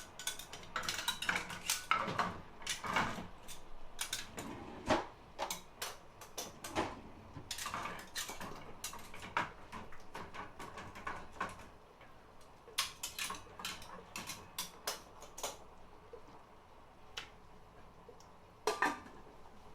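A metal utensil clinking and scraping against a cooking pot while stirring thick, cooked-down tomato purée, in irregular strokes that come thick and fast at first and grow sparser later, with one last heavier scrape near the end.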